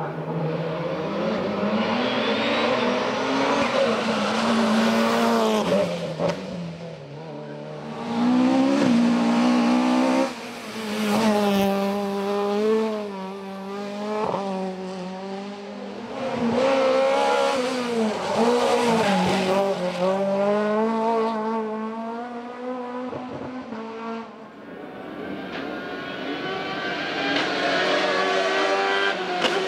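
Race car engines at full throttle on a hillclimb, the revs climbing and dropping back again and again with gear changes and lifts, as cars drive past one after another.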